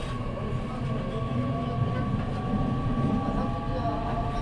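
E501 series electric train accelerating, heard from inside the passenger car: the traction motor whine climbs slowly in pitch over a steady rumble of wheels on rail.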